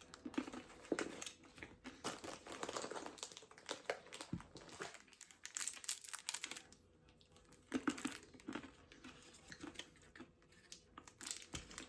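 Plastic candy packaging crinkling and rustling in irregular bursts as it is handled, with two soft low thumps, one mid-way and one near the end.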